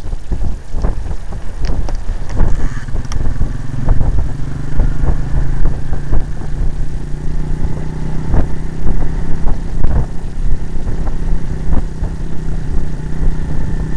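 Honda CRF50 mini dirt bike's small single-cylinder four-stroke engine running at a steady speed, with scattered knocks and clatter over it.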